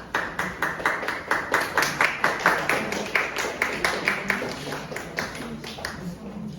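Audience clapping in an even rhythm, about four claps a second, dying away near the end.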